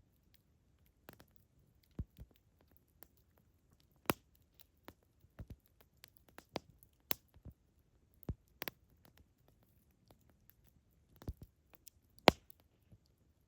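Wood campfire crackling: irregular sharp pops and snaps, a few every second or two, the loudest about twelve seconds in.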